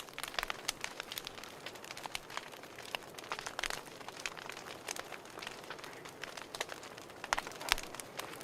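Wood fire crackling steadily, with irregular sharp pops and snaps over a soft hiss.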